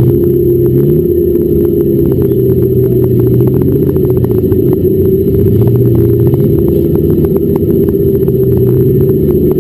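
Volkswagen Golf fun-car engine idling loudly, heard from inside the stripped cabin, with two light rises in revs, one about a second in and one around the middle. A fast, irregular ticking rattle runs under it.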